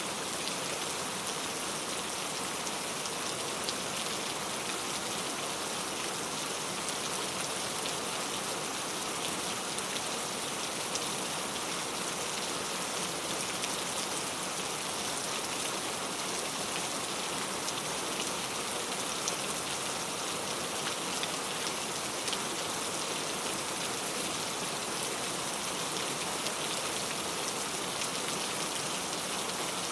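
Steady rain falling, a continuous even hiss with many fine drops pattering on surfaces.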